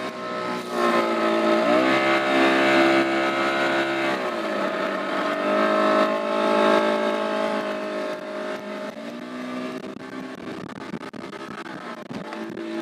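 Speedboat engine running hard, its note rising about two seconds in, dropping around four seconds, rising again near six seconds and then slowly falling as the throttle changes.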